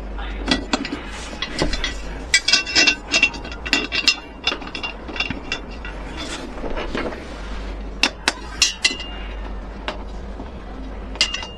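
Irregular sharp clicks and metallic clinks of hand tools and metal hardware being handled, a few of them ringing briefly.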